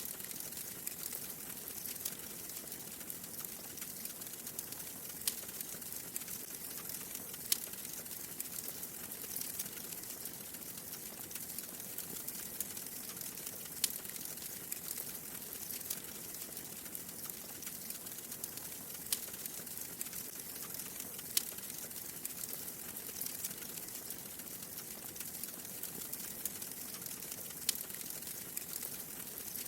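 Wood fire crackling in a fireplace: a steady hiss and fine crackle, with a sharp pop every few seconds.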